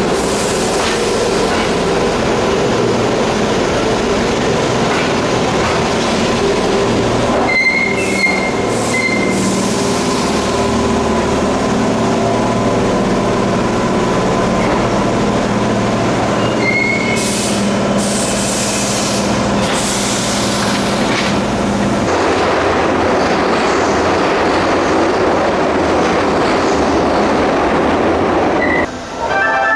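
Keihan electric train running along the station platform, its motors humming steadily under the rumble of the wheels, with brief high wheel squeals about 8 and 17 seconds in. The sound changes about two-thirds through, and a pitched signal starts just before the end.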